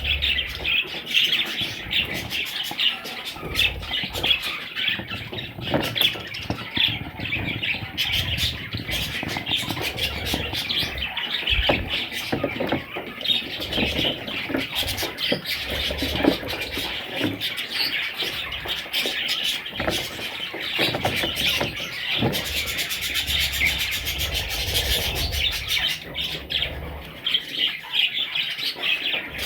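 Budgerigars chattering and chirping without pause, many short sharp notes running together.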